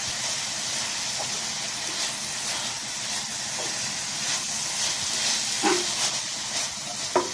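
Strips of soy-and-lemon-marinated beef (bistek Tagalog) sizzling steadily in a frying pan as they are stirred, with a few light taps and scrapes of the stirring utensil against the pan near the end.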